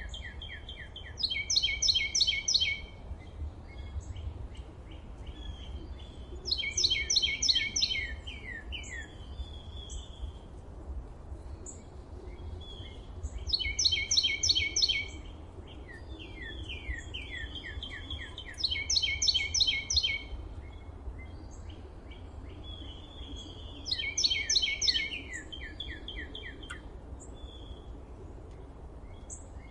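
Forest songbirds singing. One bird repeats a loud song of rapid repeated notes, lasting about a second and a half, roughly every five to six seconds, and softer chirps from other birds fill the gaps. A low steady rumble runs underneath.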